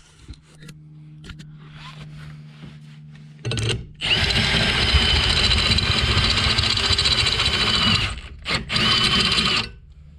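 Power drill with a step bit cutting a hole in a steel bracket: a short burst, then about four seconds of steady drilling with a high whine, then two brief bursts near the end.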